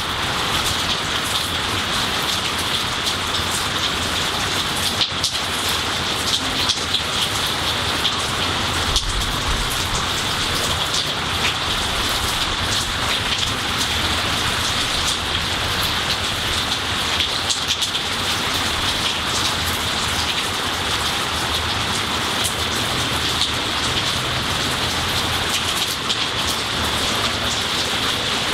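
Steady rainfall on a large tree's leaves and a garden: an even hiss of rain with a dense patter of individual drops.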